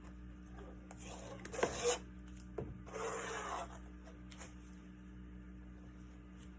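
Two short rubbing scrapes, about a second in and again about three seconds in, over a steady low hum.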